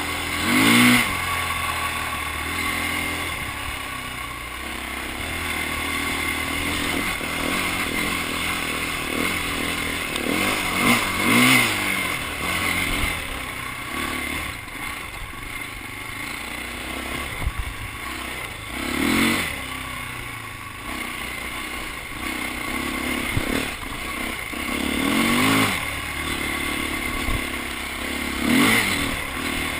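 Dirt bike engines revving up and down as the bikes ride past, with the loudest swells about a second in, around the middle and several times near the end.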